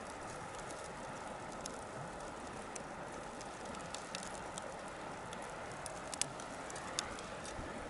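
Bonfire crackling: a steady low rush with scattered sharp pops, the two loudest a little before the end.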